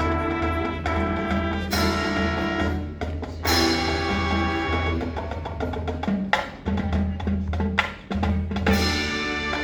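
Marching band playing its show: held brass and wind chords over a steady low bass line, with drums and percussion, and loud accented full-band hits about two seconds in, about three and a half seconds in, and near the end.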